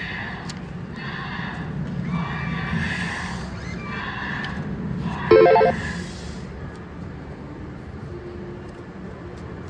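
Slot machine playing a horse whinnying sound effect, in several bursts, with a short loud electronic tone about five seconds in.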